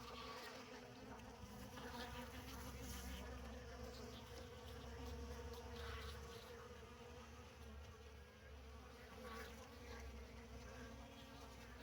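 Many honey bees buzzing as they feed at an open feeder: a faint, steady hum.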